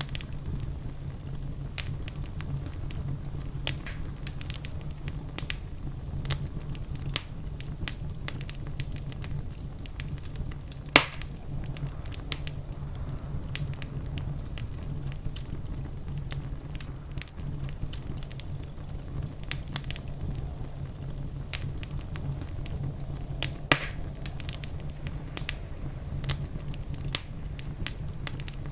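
Wood fire crackling in a fireplace: many small scattered pops and snaps over a steady low rumble, with two louder sharp pops, one about eleven seconds in and one near the end.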